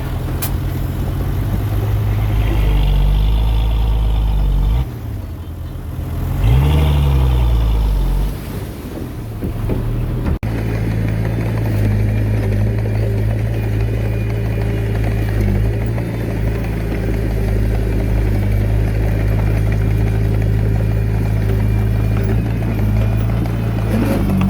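Heavy diesel engine of earthmoving machinery running under load. It drops about five seconds in, then revs up and back down. About ten seconds in it cuts off abruptly and comes back as a steady drone.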